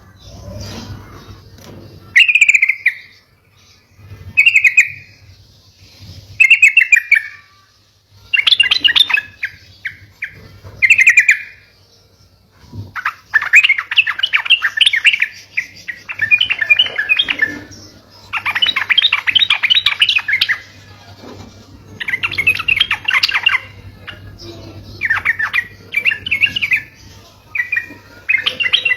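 Yellow-vented bulbul (trucuk) singing. Short bubbly phrases come about every two seconds, then from about halfway through they give way to longer, rapid chattering phrases.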